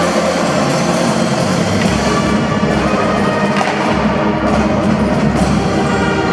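Drum band playing: marching drums under sustained melodic instruments, with the low drumming growing heavier about two seconds in.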